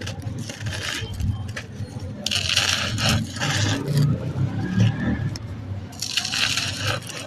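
Dry, stony sand-cement texture being crumbled, giving a crisp, gritty crunching in three bursts, the longest about two seconds in.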